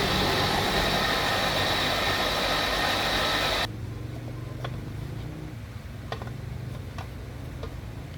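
A loud, even hissing machine noise stops suddenly about three and a half seconds in. It leaves a low, steady engine-like hum, with a few light clicks after it.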